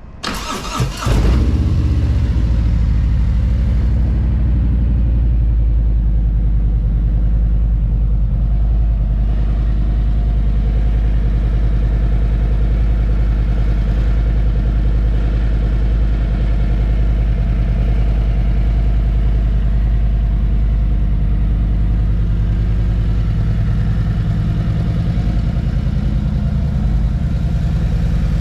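2017 Harley-Davidson Road King's Milwaukee-Eight V-twin cranking over briefly on the starter, catching about a second in, and settling into a steady, loud idle on a cold start, through a Vance & Hines exhaust.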